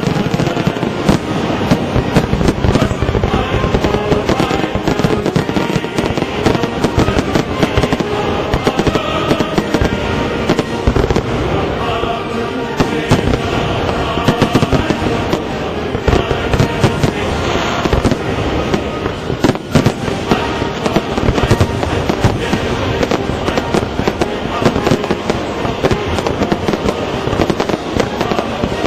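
Fireworks display: a dense, unbroken run of rapid bangs and crackles.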